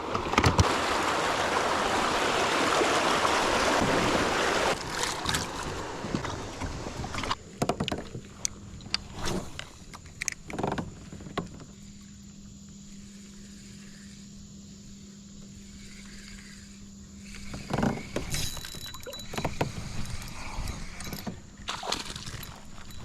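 Kayak on a river: a steady rushing noise for the first five seconds or so, then scattered knocks and clunks against the kayak's hull, with a faint low hum in the quieter middle stretch.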